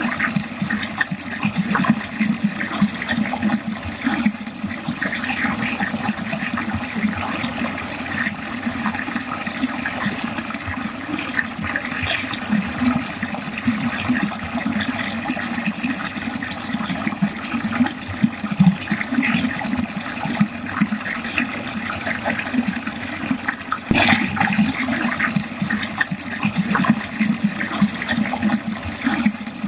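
Water running steadily into a drain, with continuous splashing and gurgling.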